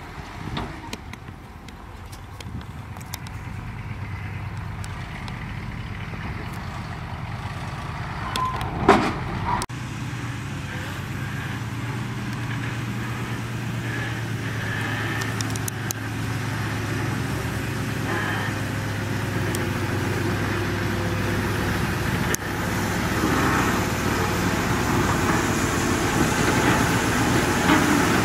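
Heavy diesel engine running steadily and growing louder, with one loud clank about nine seconds in.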